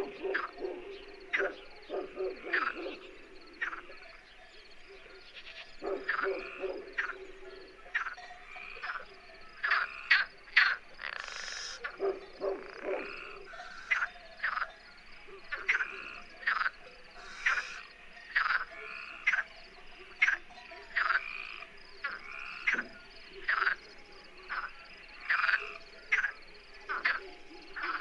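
A chorus of repeated short animal calls, one or two a second, overlapping throughout.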